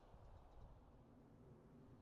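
Near silence: faint, steady low background noise.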